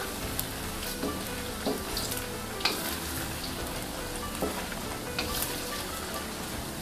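Purple eggplant slices frying in hot oil in a wok over medium-high heat, sizzling steadily, with occasional sharp clicks as a wooden spatula stirs them.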